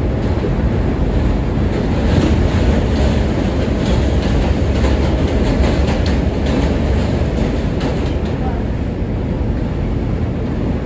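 R143 subway car running at speed, heard from inside the car: a steady low rumble of wheels on rail, with faint clicks over the rail joints.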